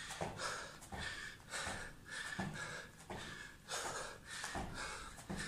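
A person breathing out in short, sharp bursts about twice a second while working out, the rhythmic exhalations of someone throwing punches.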